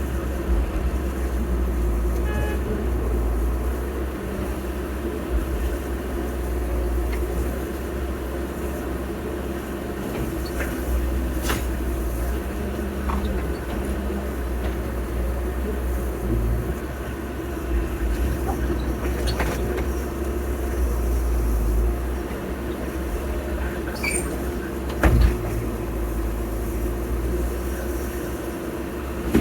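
Diesel engine of heavy earthmoving machinery running steadily, with a few sharp knocks or clanks, the loudest near the end.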